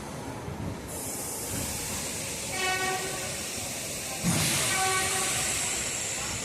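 Train horn giving two short blasts about two seconds apart, over a steady hiss of air that grows suddenly louder just before the second blast.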